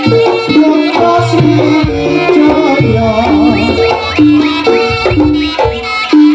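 Live Javanese jaranan ensemble music: kendang hand drums beating under pitched gamelan notes that alternate between two pitches, with a sliding melody line above.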